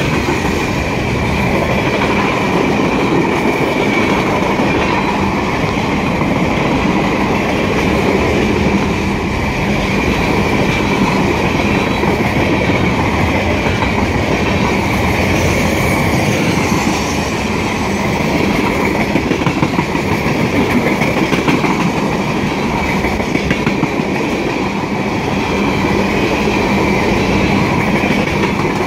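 Freight cars of a long mixed freight train (tank cars, boxcars, a gondola, a lumber flatcar) rolling past at close range: a continuous rumble and clickety-clack of steel wheels on the rails, with a steady high-pitched whine over it.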